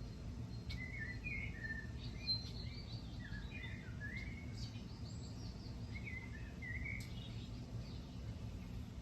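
A songbird singing in quick warbled phrases, a long run starting about a second in and a shorter one around six seconds, over a steady low rumble of outdoor background noise.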